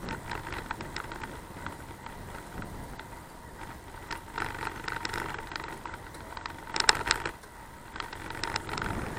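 Bicycle ride heard from the camera: steady rumble of the ride with scattered clicks and rattles, and a burst of louder clacks about seven seconds in.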